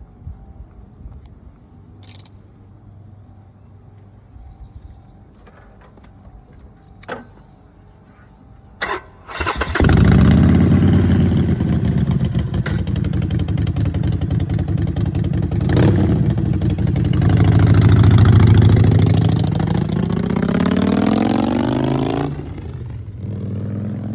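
Harley-Davidson Sportster Forty-Eight's air-cooled V-twin cold-started after a few clicks: it catches about nine seconds in and runs loud and steady. The engine swells in a rev about halfway through the running, then its level drops sharply near the end.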